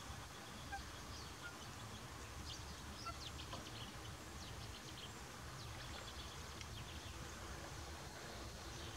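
Faint bird calls: quick runs of short, high chirps about two to four seconds in and again around five to seven seconds in, over a low steady rumble.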